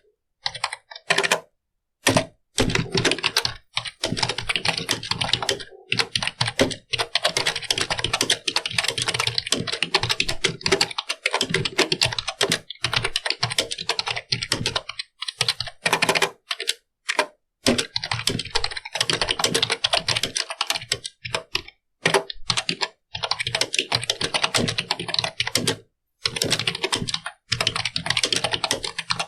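Computer keyboard being typed on: fast runs of key clicks, broken every few seconds by brief pauses.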